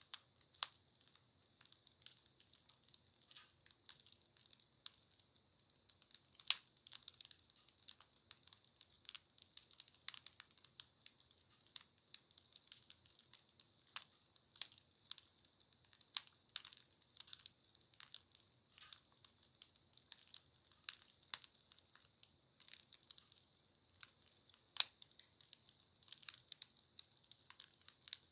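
Wood campfire crackling, with irregular pops and snaps of varying strength over a faint steady hiss.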